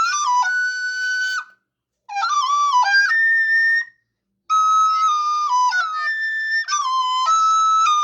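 A flute-like wind instrument playing a slow melody of held and stepping notes in three phrases, with two short breaks about a second and a half and four seconds in.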